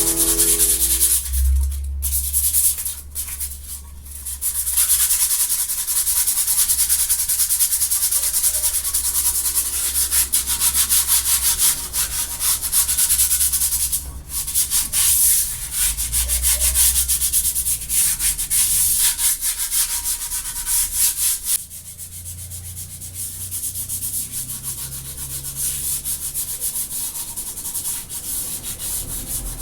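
Sanding: an abrasive rasping in rapid, closely repeated strokes. About 22 seconds in it abruptly becomes quieter and duller.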